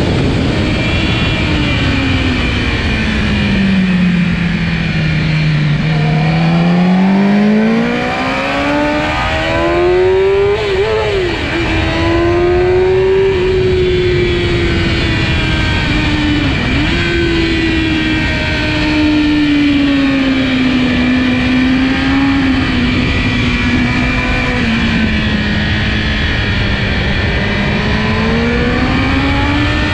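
Kawasaki ZX-10R's inline-four engine running hard on track. The revs fall steeply about four to six seconds in, then climb again with brief sharp dips around eleven and seventeen seconds in. They sag slowly through the later part and rise again near the end.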